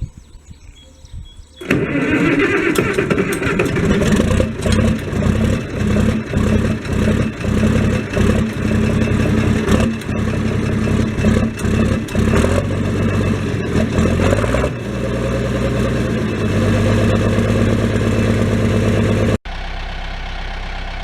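Tractor engine starting about two seconds in and running roughly with an uneven chugging, then settling into steadier running. Near the end the sound cuts off sharply to a quieter, steady engine run.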